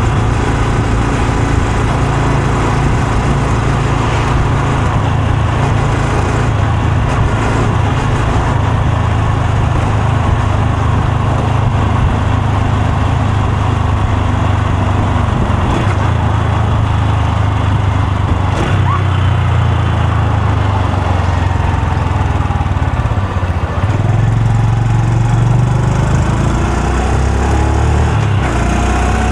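Honda Super Cub C125's air-cooled single-cylinder four-stroke engine and exhaust running steadily, its note rising a little about two thirds of the way through and shifting again near the end.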